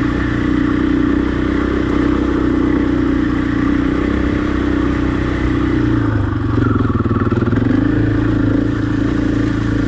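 Husqvarna dirt bike engine running steadily under way. The engine note changes briefly about six to eight seconds in, then settles again.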